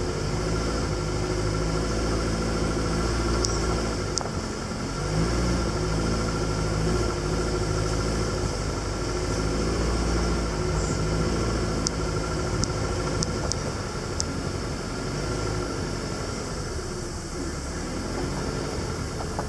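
Jeep engine running at low speed over a rough dirt track, its note rising and falling a few times, with occasional sharp clicks and rattles.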